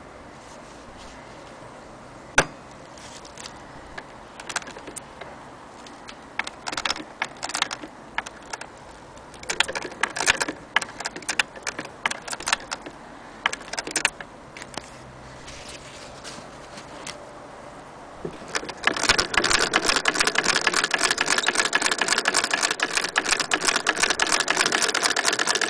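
Antique Singer 12K sewing machine: scattered clicks and short clatters of the mechanism being turned over by hand, then, about three-quarters of the way in, it runs steadily with a fast, even mechanical rattle.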